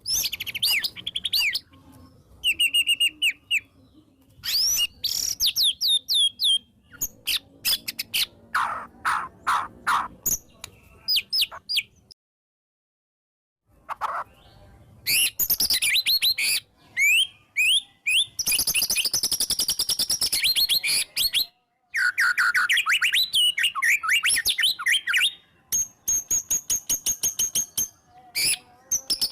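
White-rumped shama (murai batu) singing a long, varied song of whistles, pitch glides, trills and fast rattling runs of notes, with a complete break of about a second and a half around twelve seconds in.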